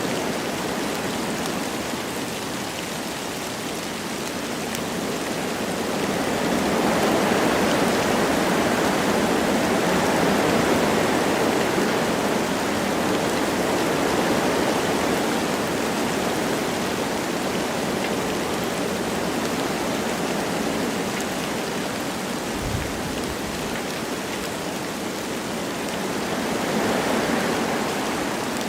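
Wind blowing through forest trees with light rain falling, a steady rushing hiss that swells in a gust about seven seconds in, eases, and swells again near the end.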